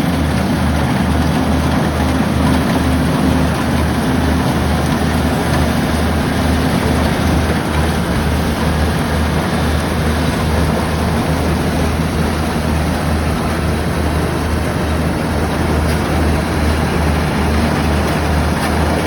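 Rice combine harvester running steadily under load, a loud engine-and-machinery noise with a deep, even throb.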